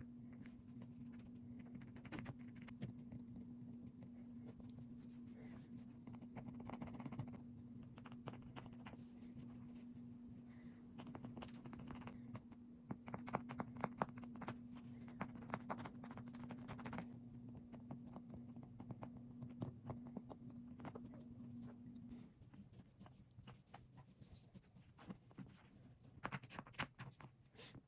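Faint scratching and crackling from hands working on the inflatable boat's material, in irregular clusters. Under it runs a steady low electrical hum that cuts off about 22 seconds in.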